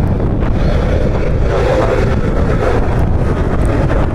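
Wind buffeting the microphone, a steady loud rumble with no clear pitch.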